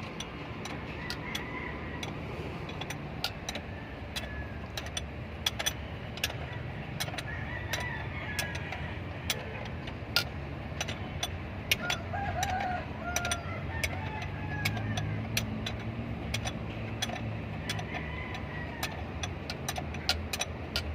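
Chickens clucking and a rooster crowing, with the clearest calls about eight and twelve seconds in, over a steady low hum. Frequent irregular sharp clicks run throughout.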